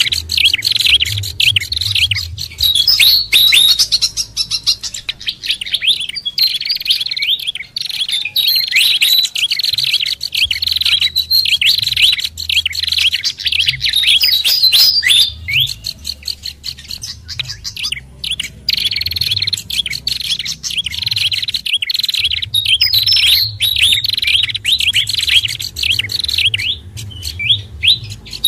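Bird-lure recording of small songbirds, a mix of fantail, babbler and prinia calls, chattering in dense, rapid overlapping chirps and short whistled glides with only brief pauses.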